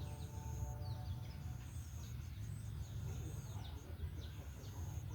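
Small birds chirping in short notes that fall in pitch, over a steady low rumble and a high, on-and-off hiss.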